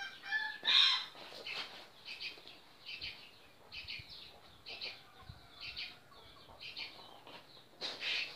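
Birds chirping in quick, repeated short high calls, with a short loud burst of noise about a second in and another near the end.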